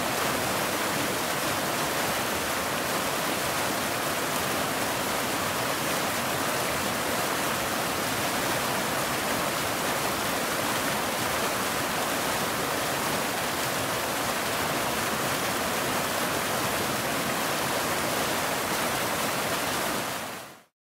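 Waterfall: a steady rush of falling water, fading out quickly near the end.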